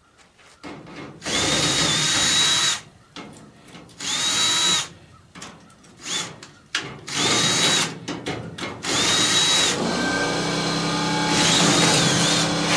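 An air-powered driver or drill fires in several short bursts, each a hiss of air with a whine that spins up to a steady high pitch, as it backs screws out of a furnace panel. About ten seconds in, an air compressor motor starts and runs with a steady hum, refilling the tank after the tool has drawn its air down.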